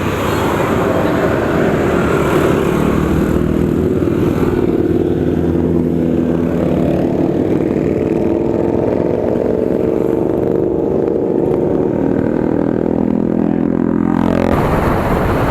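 A motor vehicle's engine running at a steady pitch over a constant rushing noise, its pitch dropping briefly before the sound changes abruptly near the end.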